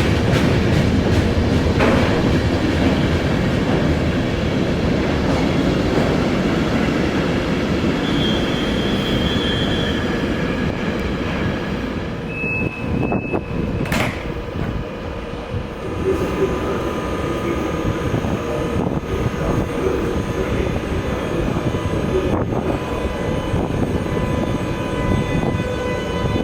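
Train rolling past on the rails with a steady rumble. Its wheels squeal briefly in short high tones in the first half. There is a sharp click about halfway through, and several steady high tones sound in the second half.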